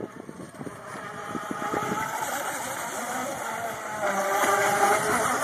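Electric RC racing boat's twin motors whining as it runs on the water, the whine growing louder about four seconds in.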